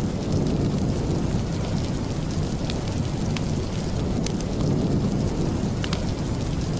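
Steady rain, a continuous even noise heavy in the low end, with a few sharp ticks scattered through it.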